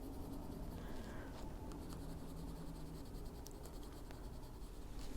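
Colored pencil scratching on paper: faint, steady shading strokes with a few light ticks.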